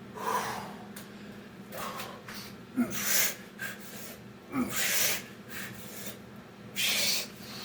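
A man breathing hard from exertion during a set of Navy SEAL burpees: four forceful, hissing exhales about two seconds apart, two of them preceded by a short grunt.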